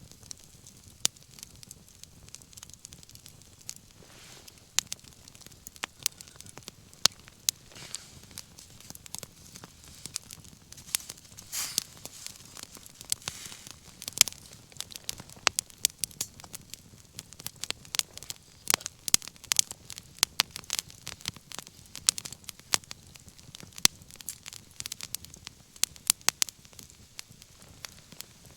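Wood fire crackling, with frequent irregular sharp pops from the burning wood and a couple of brief hisses.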